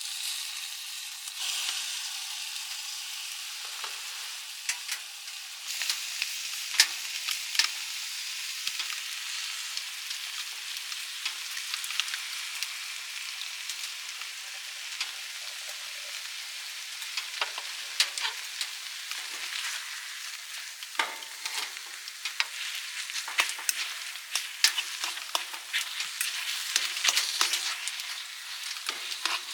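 Food sizzling in a pan, a steady hiss with frequent small crackles and clicks of stirring, busier near the end.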